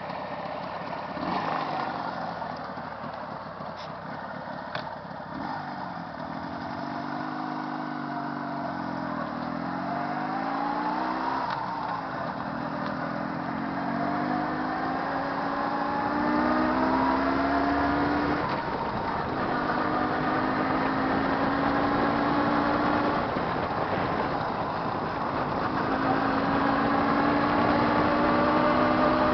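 Jawa 638's warmed-up two-stroke twin engine pulling the motorcycle along, its note climbing steadily in each gear, broken twice by brief drops at gear changes about two-thirds of the way through and again near the end.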